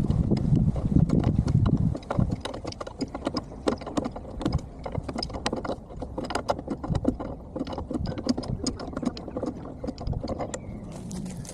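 Sped-up clatter of hand-tool work on a hydraulic cylinder: rapid, irregular metal taps, clicks and knocks, heavier and lower in the first couple of seconds.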